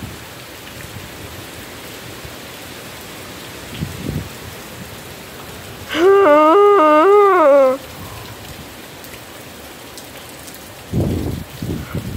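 Heavy hurricane rain falling steadily. About six seconds in, a loud pitched tone wavers up and down several times and sinks at the end, lasting just under two seconds. Low rumbling thumps come briefly near the middle and again near the end.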